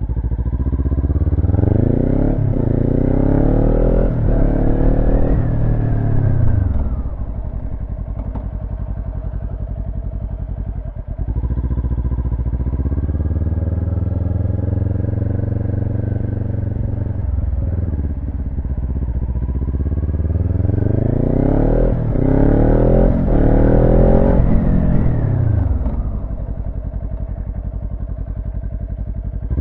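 Motorcycle engine accelerating up through the gears, its pitch climbing in steps, then dropping away as the bike slows for a firm practice stop. It runs steadily for a while, and about twenty seconds in the same climb through the gears and slow-down comes again.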